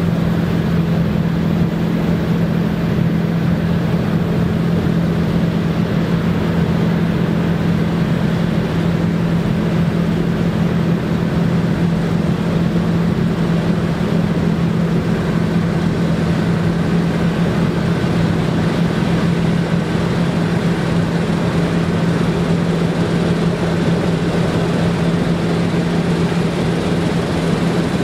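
Claas Lexion combine harvester running steadily at work in rye: a constant deep engine hum over the dense noise of the threshing machinery, with no change in pitch or load throughout.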